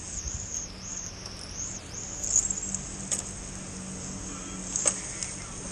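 Steady high-pitched chorus of insects, crickets or cicadas, with a few sharp clicks about three and five seconds in.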